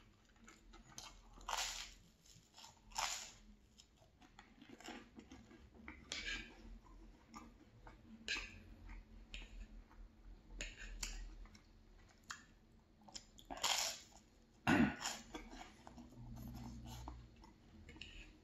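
Close-up eating sounds: toast being bitten and chewed with irregular crisp crunches and wet mouth sounds, and scrambled eggs taken from the plate with a fork. A sharper, louder crunch comes about fifteen seconds in.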